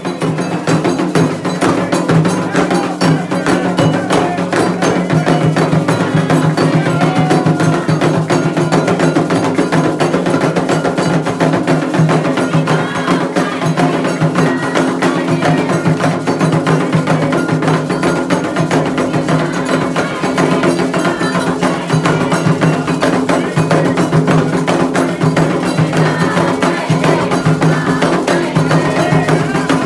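Candomblé ritual drumming: atabaque hand drums played continuously and densely, with a struck bell cutting through.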